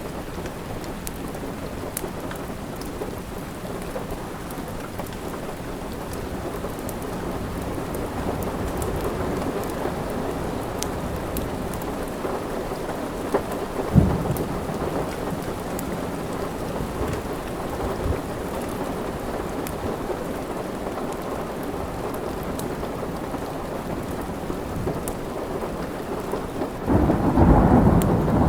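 Steady rain, with scattered sharp crackles from a fireplace. There is a sudden loud thud about halfway through, and a roll of thunder swells up near the end.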